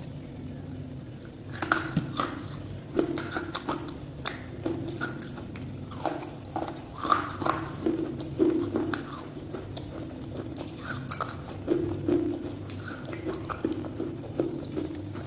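Close-up crunchy biting and chewing of something hard, with irregular crunches every half second or so.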